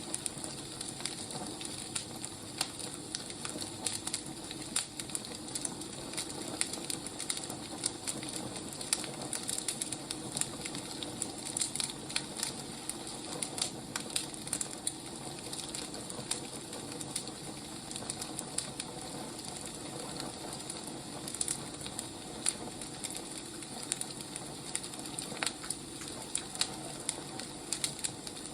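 Wood fire burning, with a steady hiss and frequent small, irregular crackles and pops.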